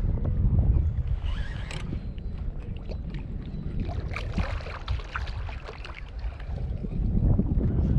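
Wind buffeting the microphone in gusts, easing for a few seconds in the middle and building again near the end, with small water splashes and sloshing close by.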